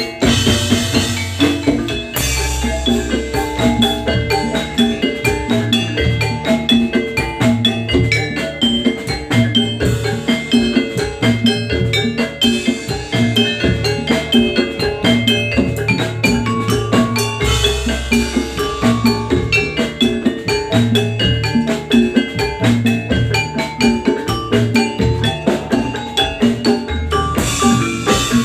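Instrumental jathilan gamelan music without vocals: struck metal keyed instruments play fast repeated pitched notes over a steady drum rhythm. The music stops suddenly near the end.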